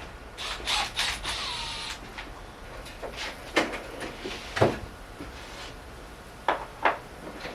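Metal hand tools and car parts clinking and knocking while a front wheel hub is worked on, with a short scraping rasp about a second in and a few separate sharp knocks after it.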